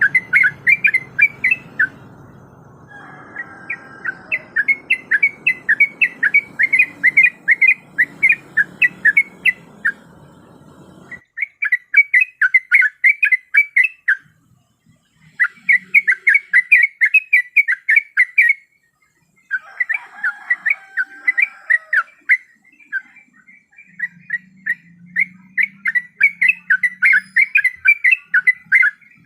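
Sooty-headed bulbul (trucuk) calling: quick runs of sharp, repeated chirping notes, several a second, broken by short pauses. It is played as a lure call to draw other bulbuls.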